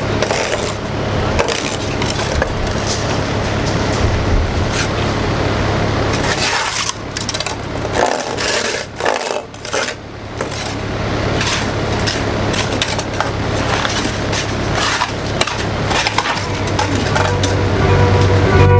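Heavy machine's engine running steadily, with repeated sharp knocks and scrapes of stone on stone as rocks are moved into place. The sound dips briefly about halfway through.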